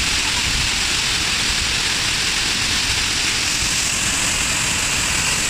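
Rhine Falls waterfall: a steady, unbroken rush of heavy falling water.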